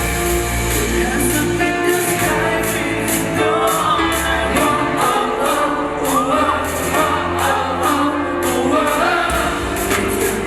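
Live pop music played loud through a PA: a band with bass, held chords and a steady cymbal beat, with a singing voice coming in about three seconds in.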